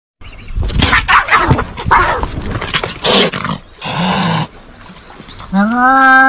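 Animal cries: a run of harsh squeals and yelps, then one long, steady, high bleating call near the end.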